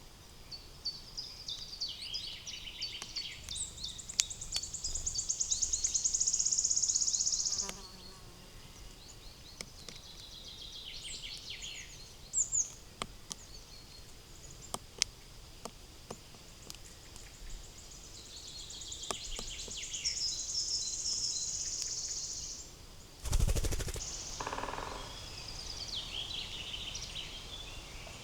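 Wild songbirds singing in a forest, about four bursts of song. The longest opens with a run of quick falling notes and ends in a fast, high trill. One dull thump comes near the end.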